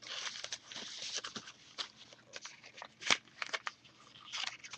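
Folded sheet of origami paper being handled and opened out, rustling and crinkling with crisp little crackles. A dense rustle in the first second and a half, a sharper snap about three seconds in, and another short rustle near the end.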